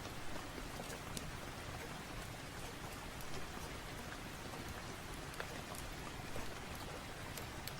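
Steady rain ambience, an even hiss, with scattered small crackles and ticks of a fireplace fire mixed in.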